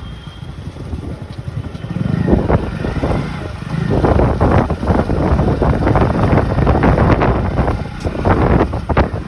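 Busy road traffic: vehicle engines and tyres passing close by in a continuous rumble, growing louder about two seconds in and again from about four seconds in.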